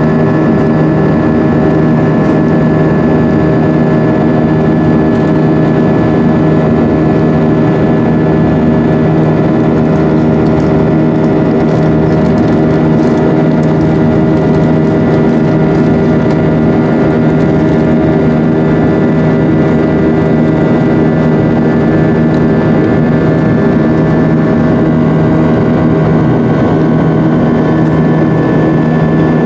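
Steady cabin drone of an Airbus A320-232's IAE V2500 turbofan engines heard from inside the passenger cabin: a loud rushing hiss with several steady humming tones layered over it.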